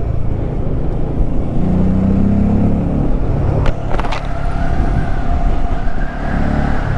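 Honda Grom mini bike's engine running on the ride, with road and wind noise; the engine note rises about two seconds in. Two sharp clicks come about four seconds in, followed by a steady high-pitched tone.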